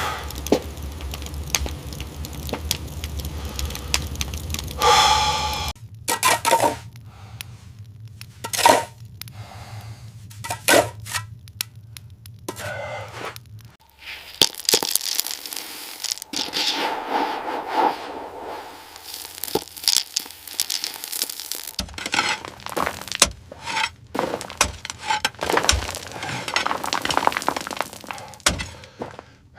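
Irregular sharp cracks and snaps with stretches of scraping and rustling, the sound of shelter-building hand work with wood. A steady low rumble underlies the first few seconds, then stops.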